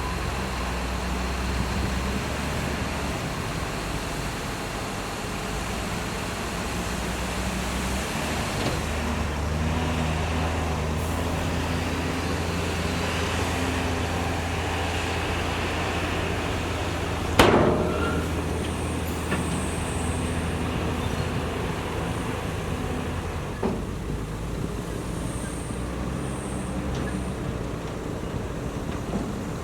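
Diesel engine of heavy earthmoving equipment running steadily, its note shifting up and down a few times as it works, with one loud sharp bang a little over halfway through and a smaller knock later.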